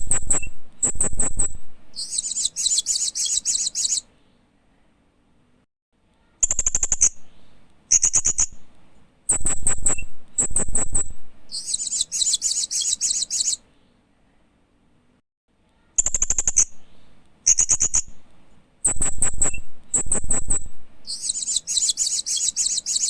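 Hanging parrot (Loriculus) calling: a run of sharp, very high short chips, then a rapid buzzy chatter about two seconds long, then a pause. The same phrase comes round about every ten seconds.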